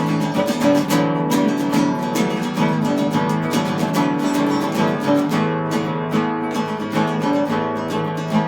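Instrumental acoustic guitar music: quick plucked notes over strummed chords, played at a steady pace.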